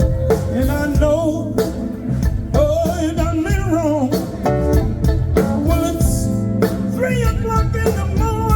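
A live blues band playing an instrumental passage: a lead line of bent, wavering notes over bass and drums.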